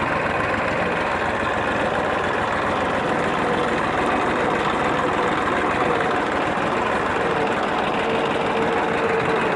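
Massey Ferguson tractor engine running steadily while the tractor is driven.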